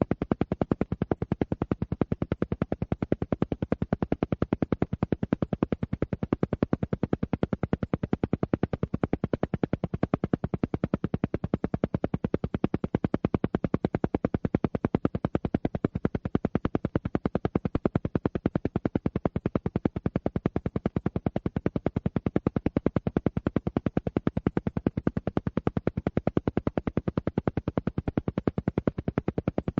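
Alpha-wave brainwave-entrainment track: a rapid, perfectly even train of short electronic pulses, strongest in the low tones, repeating unchanged. The pulsing is meant to sit at the alpha rate of roughly 8 to 12 beats a second, to induce a relaxed state.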